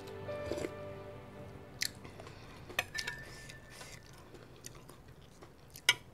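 Close-up eating sounds: a person chewing noodle soup, with a few sharp clicks, the loudest just before the end. Faint background music underneath.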